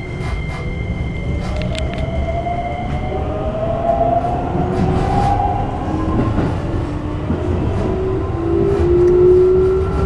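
Keikyu New 1000 series train with Toyo IGBT-VVVF inverter, heard from inside the car: the traction motors whine and rise in pitch as the train accelerates, in two rising stretches over the steady rumble and clicks of the wheels on the rails. A steady high tone stops about three seconds in.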